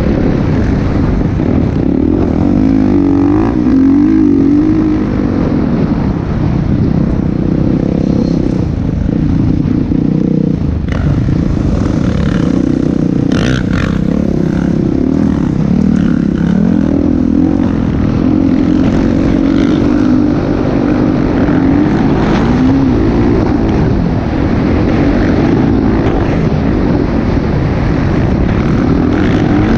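Motocross dirt bike engine running hard, its pitch rising and falling over and over as the throttle is worked.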